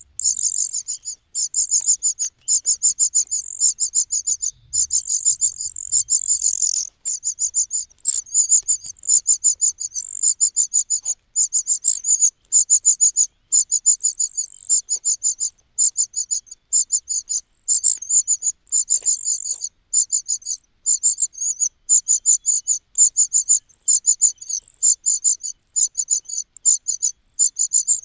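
Nestlings begging: high, rapid pulsed chirps in bouts of about a second, repeated over and over with short gaps.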